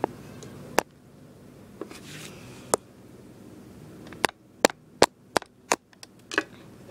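Sharp clicks and taps of small hard plastic toys being handled and set down, a few spaced apart, then a quick run of them about four to six seconds in.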